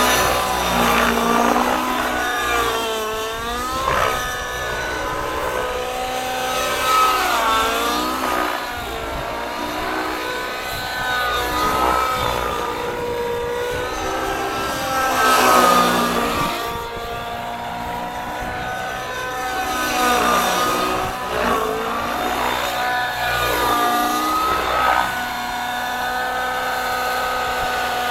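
Nitro-engined Gaui NX7 RC helicopter in flight: the engine and rotor whine keeps rising and falling in pitch, swelling and dropping every few seconds as it manoeuvres and passes by.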